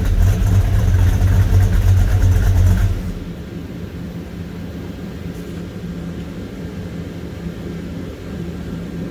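1974 Plymouth Duster's 360 small-block V8, bored to 366, running through full headers and Pypes turbo mufflers. It runs loud at raised revs for about three seconds, then drops back to a quieter, steady idle.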